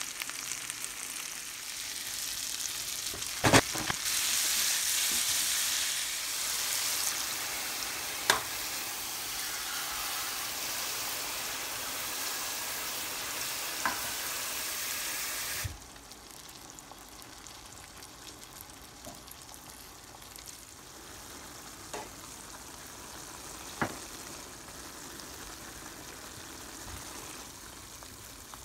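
Eggplant, broccoli and peppers stir-frying in oil in a skillet: a steady sizzle that drops suddenly to a quieter level a little past halfway. A few short sharp knocks of the stirring utensil against the pan.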